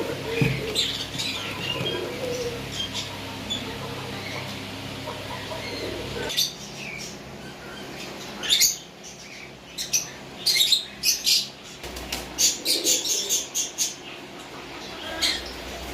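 Pigeons flapping their wings in short, sharp bursts, repeated several times in the second half. Short, high bird chirps come in the first part.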